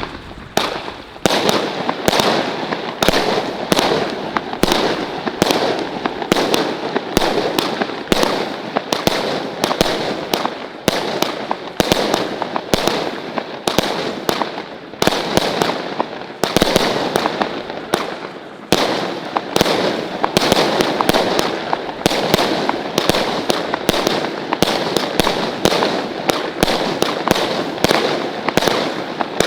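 Consumer firework batteries firing a dense, rapid barrage of bangs and crackling shots. The barrage starts abruptly and keeps going without a break.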